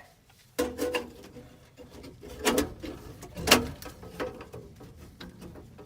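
A handful of sharp metallic knocks and clinks from work on black iron gas pipe fittings, the loudest about three and a half seconds in, over a steady low hum.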